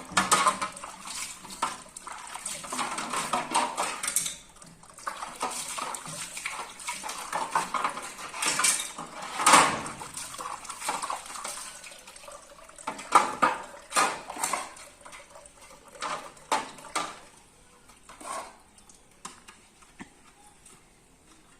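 Dishes and food containers being washed by hand, clattering and clinking against each other, with water running in the first few seconds.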